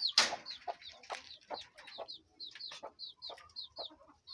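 Chicks peeping in short, high, falling chirps, about three a second, among the low clucks of their mother hen. A brief loud noise comes right at the start.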